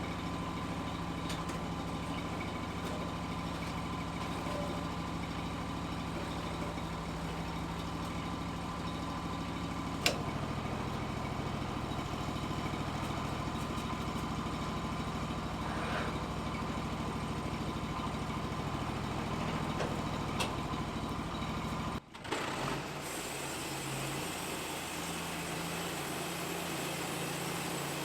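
Engine running steadily at an even speed, with a sharp click about ten seconds in. About three-quarters of the way through the sound cuts out for an instant and resumes as a steady engine with more hiss and a different low note.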